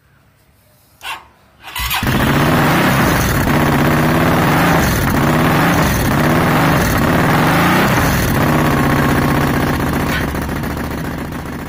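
V-twin motorcycle with an Akrapovic exhaust starting: two short sounds, then the engine catches about two seconds in and runs loud and steady at idle, easing off slightly near the end.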